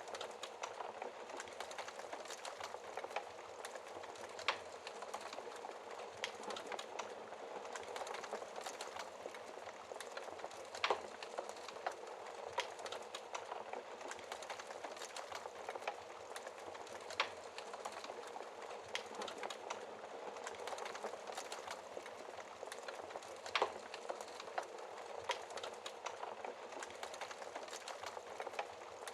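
Wood fire crackling in a fireplace: a steady mass of small crackles with a sharper pop every few seconds.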